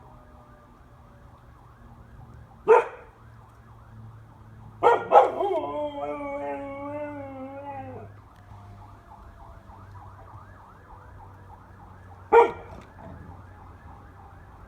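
Fire truck siren in a fast repeating yelp, fainter than the dog. A yellow Labrador gives a short bark about three seconds in, then a bark that breaks into a wavering howl lasting about three seconds, and another short bark near the end, howling along with the siren.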